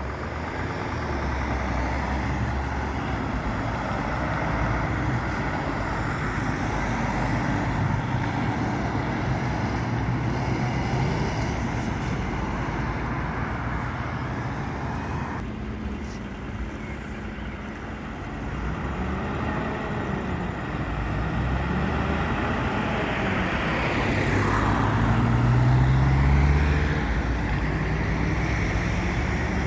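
City street traffic with heavy truck engines running and vehicles passing. Late on, one engine grows louder and rises in pitch as it accelerates past, then drops back.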